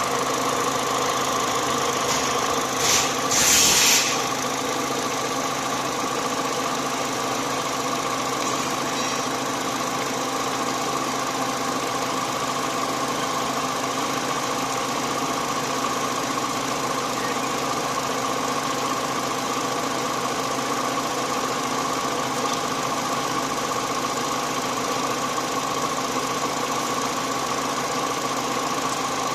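Peugeot-Citroën car engine idling steadily. About three seconds in there is a brief, louder hiss.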